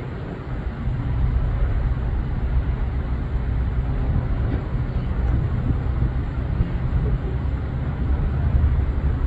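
Steady low mechanical rumble, strongest in the deep bass, continuing without a break.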